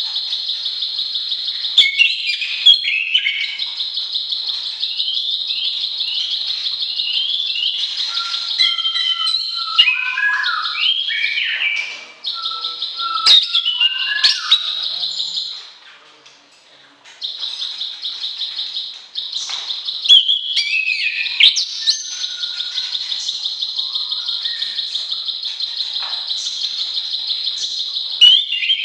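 Songbird song from an orange-headed thrush (anis kembang) and a prinia (ciblek sawah): a long, rapid, high trill broken by bursts of varied whistled phrases and chirps. It goes briefly quieter a little past the middle.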